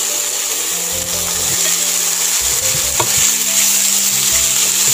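Raw chicken pieces sizzling steadily in hot oil in a non-stick frying pan with shallots and dried red chillies, while a spatula stirs and knocks against the pan.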